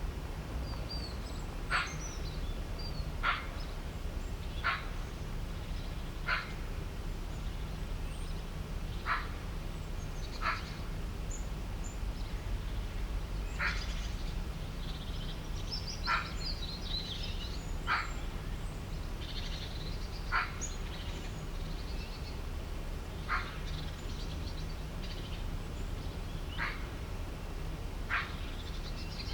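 An animal's short, sharp call repeated about thirteen times, every two seconds or so at uneven intervals, with faint higher bird chirps in between over a steady low hum.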